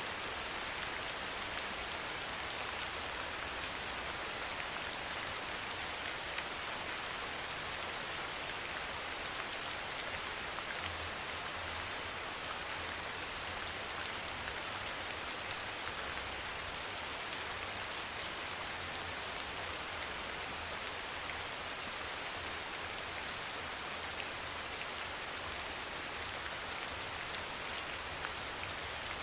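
Steady, even rain falling, with scattered drop patter on a surface.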